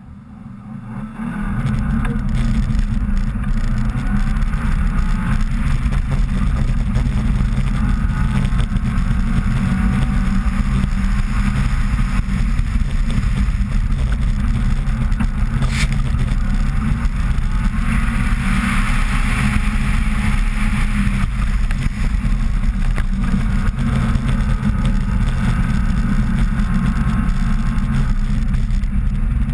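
2000 Subaru Impreza 2.5RS's 2.5-litre flat-four engine running under hard driving on studded ice-racing tyres, heard through a heavy, steady low rumble of wind on the outside-mounted camera microphone.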